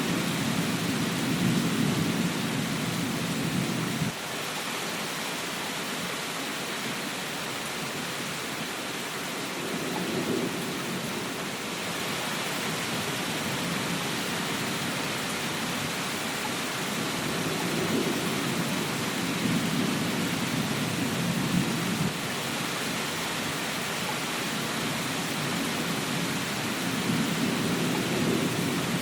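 Steady rain hissing, with low rolling thunder rumbling several times; the first rumble cuts off suddenly about four seconds in.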